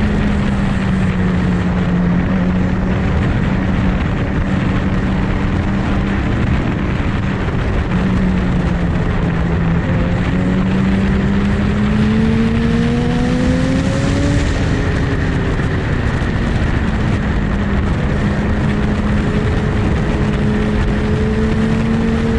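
Motorcycle engine running steadily under way, with heavy wind and road noise. Its pitch climbs slowly to a peak about fourteen seconds in, then drops back and rises again near the end.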